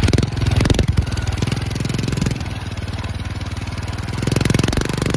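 Mini bike engine running with a rapid, even firing beat, picking up briefly about a second in and again near the end.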